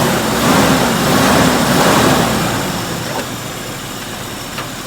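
A motor vehicle's engine swelling louder for about two seconds and then fading back down.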